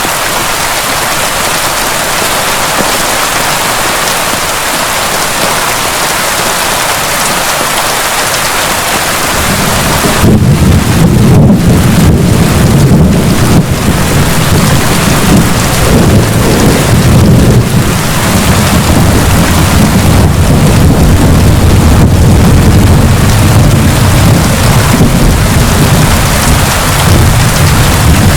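Heavy rain falling steadily. About nine seconds in, a long, loud, low rumble of thunder rolls in and carries on under the rain.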